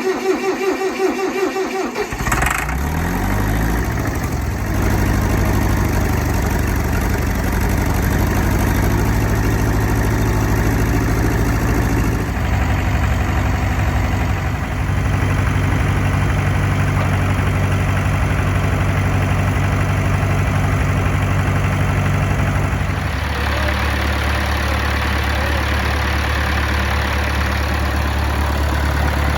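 International Harvester 574 tractor engine being cranked by the starter for about two seconds, catching and revving up, then running steadily. Its engine speed shifts about twelve seconds in and again a little past twenty seconds.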